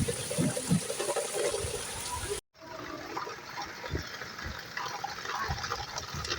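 Steady rain with running and splashing water, with scattered low thuds. The sound cuts out completely for a moment about two and a half seconds in, and comes back duller.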